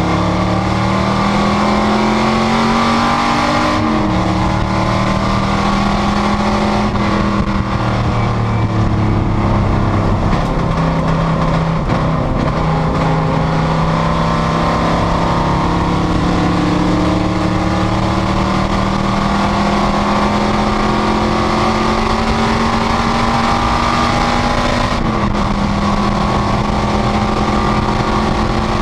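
Panoz GTS race car's engine pulling hard and loud, its pitch climbing slowly, with a sharp drop in revs about four seconds in and again near the end as it shifts up.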